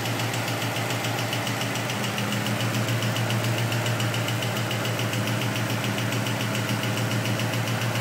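Ford Coyote 5.0 L V8 idling steadily on its first start-up, heard through long-tube headers, an X-pipe and a Magnaflow exhaust, with an even, fast pulse.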